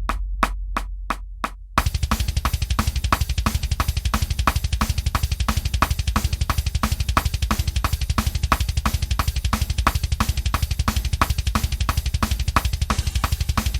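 A few evenly spaced sharp clicks over a low hum, then about two seconds in a full drum kit starts a fast thrash metal beat: a rapid, steady bass drum under regular snare hits and cymbals.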